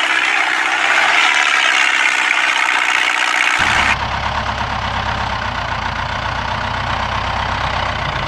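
A motor running steadily, with a dense whirring noise. About four seconds in the sound changes abruptly, becoming duller and a little quieter.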